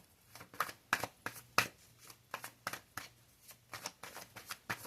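Tarot cards being shuffled by hand: a string of short, sharp card snaps and flicks at uneven spacing, about three or four a second.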